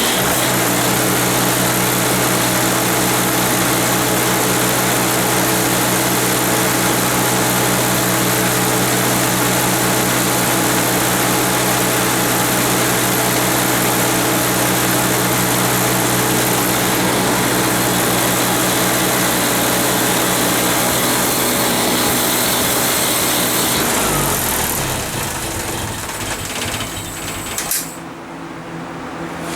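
Hercules IXBER engine of a 1954 Hobart 10 kW generator running steadily at full speed on its first run in years, then slowing down over a few seconds near the end with a click as it drops to a lower, quieter speed.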